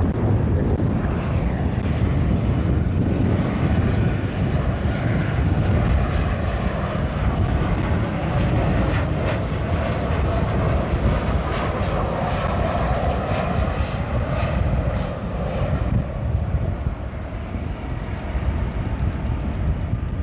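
Airliner jet engines running loud as a plane passes: a steady rush with a droning tone that swells in the middle and eases off near the end.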